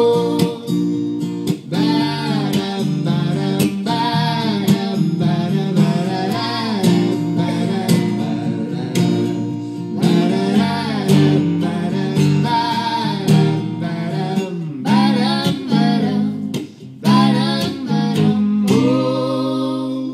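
Folk song performed live: acoustic guitar strummed with voices singing over it. Near the end it settles into one long held chord.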